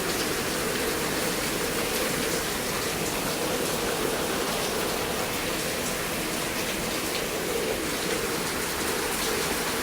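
Heavy thunderstorm rain pouring down steadily, with a steady jet-like drone mixed in. The drone is of unknown source, possibly the rain hitting something out of sight.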